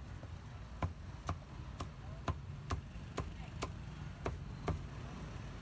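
Cleaver chopping on a cutting board: about nine sharp, even strokes, roughly two a second, starting about a second in, over a low steady rumble.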